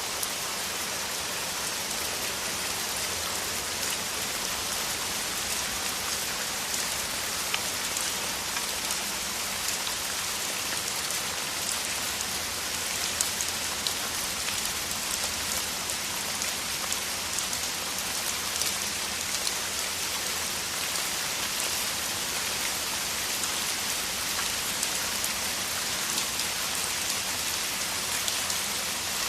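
Heavy rain falling steadily, a dense hiss of countless drops with the sharper ticks of single drops landing close by.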